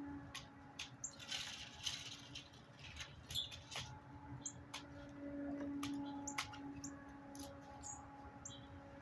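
Backyard birds: a few brief high chirps among many scattered sharp clicks and ticks, over a steady low hum.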